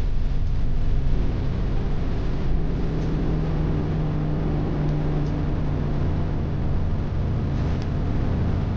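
Airliner jet engines running at takeoff power, a steady rumble with a humming tone that comes in a few seconds in.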